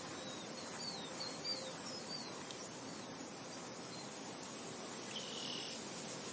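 Steady wind noise. Over it, a few short high bird chirps come in the first couple of seconds, and a brief high buzz, like an insect's, sounds about five seconds in.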